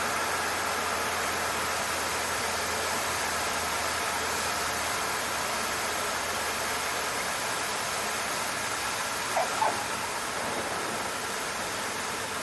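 Cessna 152 cabin noise in flight: the four-cylinder engine and airflow as a steady, even hiss. Two short faint blips come about nine seconds in.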